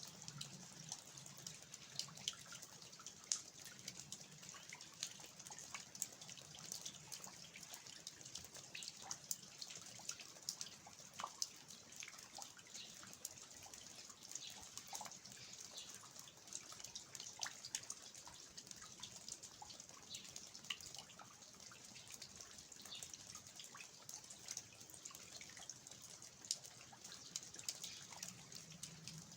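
Steady rain with water dripping from the eaves (낙숫물), many irregular drops ticking over a soft hiss.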